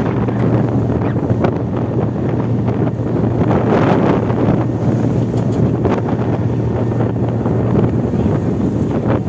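Strong wind buffeting the microphone: a loud, low, rumbling noise that surges and eases without letting up.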